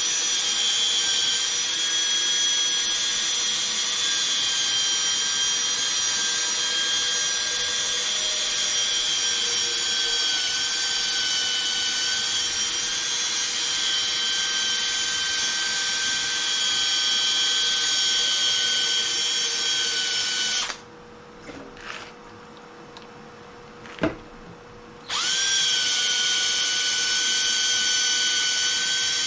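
Cordless drill spinning a 500-grit hook-and-loop sanding pad, wet sanding a plastic headlight lens: a steady high whine. It stops about 21 seconds in, there is a sharp click near 24 seconds, and it starts again about 25 seconds in.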